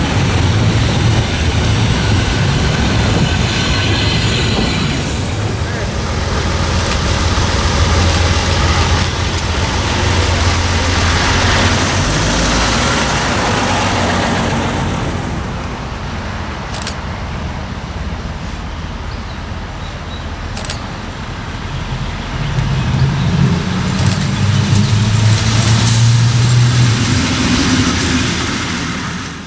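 Rail vehicle running past with steady engine noise and a few sharp clicks, its engine note rising in pitch near the end as it accelerates.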